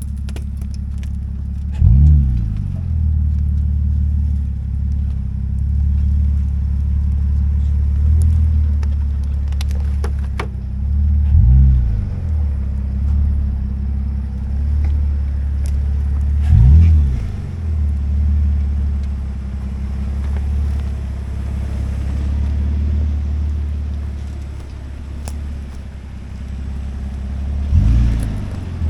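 A 4x4's engine running steadily while driving. The revs briefly rise and fall four times.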